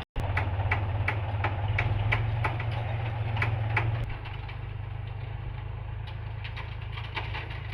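Tractor diesel engine idling steadily, with a sharp tick about three times a second; about four seconds in it drops to a quieter idle.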